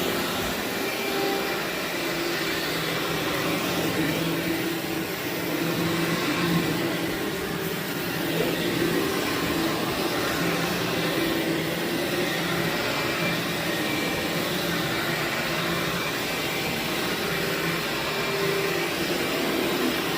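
Vacuum cleaner running on carpet, a steady whooshing with a motor hum whose pitch wavers slightly as it is pushed back and forth.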